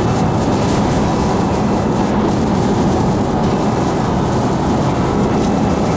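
Steady, loud noise inside a vehicle driving through a hurricane rain band: heavy rain and wind on the body and tyres on a wet road.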